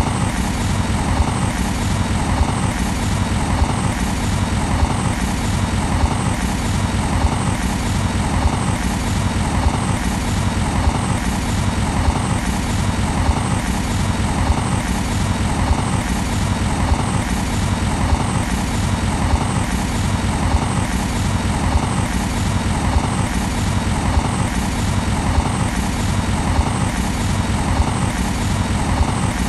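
CrossCountry Voyager diesel passenger train running past at a steady speed, a continuous steady rumble and rush that pulses about one and a half times a second.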